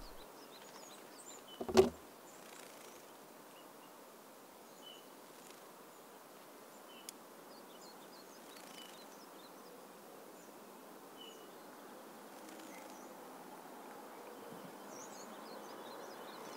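Quiet outdoor ambience: a steady faint hiss with scattered short, high chirps. A single heavy thump breaks it about two seconds in.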